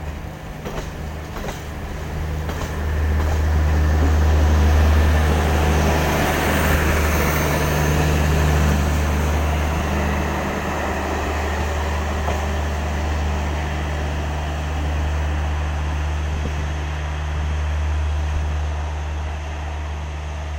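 Express passenger train rolling past at close range, a steady rumble of wheels on rails that swells a few seconds in, is loudest for several seconds, then eases slightly.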